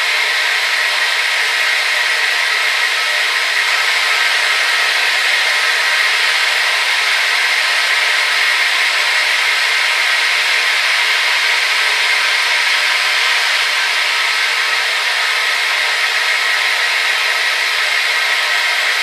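Hair dryer blowing continuously: a steady, even rush of air with a faint motor whine, its sound strongest in the upper middle and with no low rumble.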